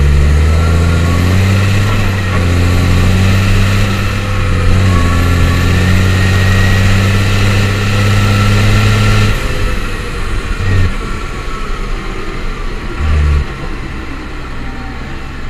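New Holland T7030 tractor's six-cylinder diesel engine running hard and steady, with a whine above it, then dropping back about nine seconds in. Two short low thumps follow, about two seconds apart.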